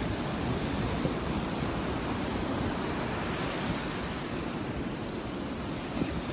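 Gulf of Mexico surf washing onto the beach, a steady rush of wave noise.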